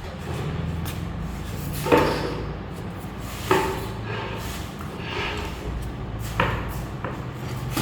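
Several sharp knocks, five in all and a second or more apart, some with a short ringing tone, over a steady low hum.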